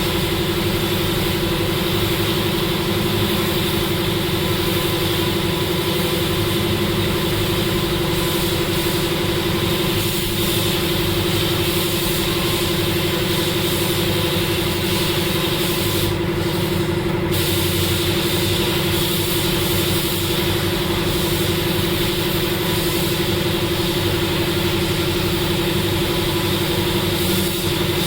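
A motor running with a steady, unchanging drone.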